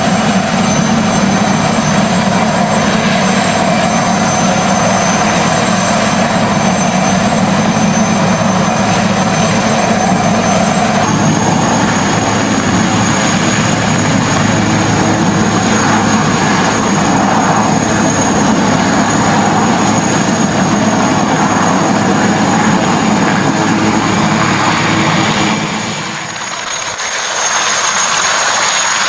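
Helicopter turbine engines and rotor running steadily, with a high, constant turbine whine over dense engine and rotor noise. The sound changes abruptly about a third of the way through, and dips briefly near the end before resuming.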